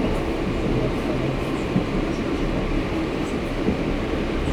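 TEP70BS diesel passenger locomotive under way: a steady rumble of the diesel engine and wheels running on the rails.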